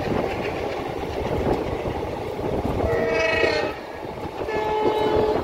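Indian Railways train running along the track with a steady rumble, and a locomotive horn sounding twice: a blast about three seconds in, then a second one about a second later, each lasting about a second.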